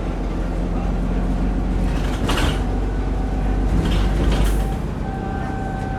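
Alexander Dennis Enviro400 double-decker bus running, heard from inside, with a steady engine hum. Two short hisses come about two and four and a half seconds in. Near the end the low rumble eases and a steady whine comes in.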